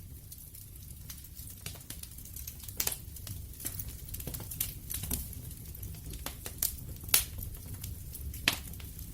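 Wood fire crackling: irregular sharp snaps and pops from the burning wood, a few much louder ones about three seconds in, again around seven seconds and near the end, over a steady low rumble of the flames.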